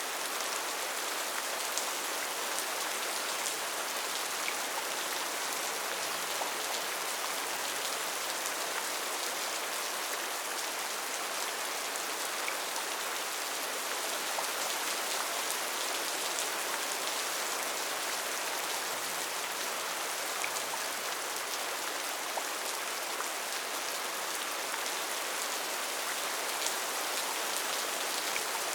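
Steady rain falling, an even hiss with scattered ticks of single drops, unchanging throughout.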